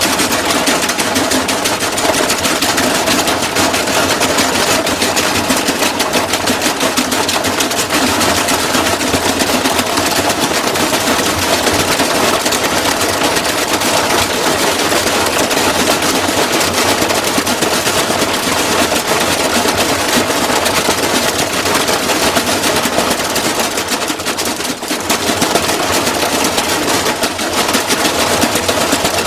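Washing machine being wrecked on a high-speed spin, its drum and cabinet banging in a rapid, continuous clatter, with a brief lull about 25 seconds in.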